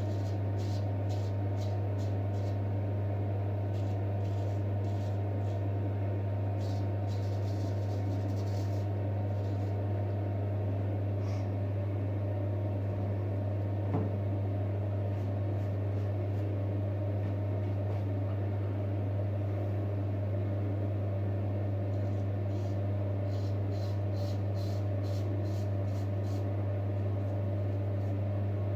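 Steady low hum throughout. Over it come runs of short, quick scraping strokes of a straight razor over stubbled skin, about three a second: in the first couple of seconds, again around seven seconds in, and from about twenty-two seconds to the end.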